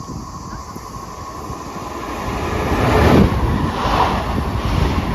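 A TER train passing through the station. The rumble of wheels on rails builds to its loudest about three seconds in and carries on as the carriages go by.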